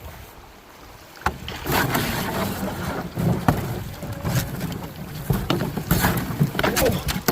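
A 50-year-old fiberglass canoe moving through river rapids: rushing water and a loud low rumble of wind on the microphone that comes in after about a second and a half, with several sharp knocks scattered through it.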